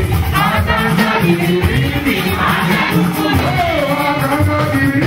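Live Yoruba gospel band music, with voices singing over drums and percussion.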